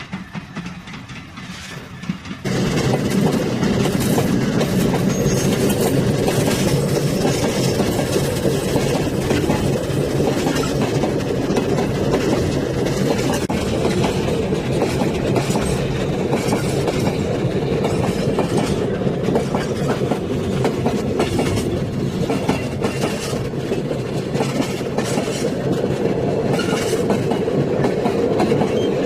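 A train running on rails, its wheels clattering over the rail joints with steady rumbling noise. The clatter comes in suddenly, loud, about two and a half seconds in, and keeps on.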